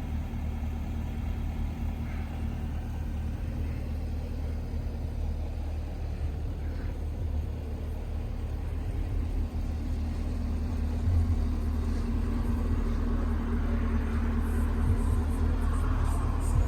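A Chevrolet Camaro 2SS's 6.2-litre V8 running with a steady low rumble, growing louder over the last few seconds.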